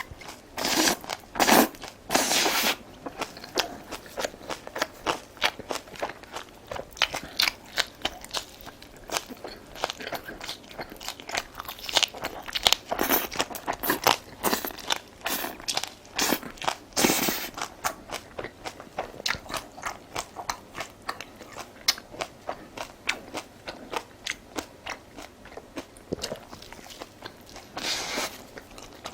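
A person chewing and biting crunchy food at close range: dense, irregular crunches and crackles, with several louder bites.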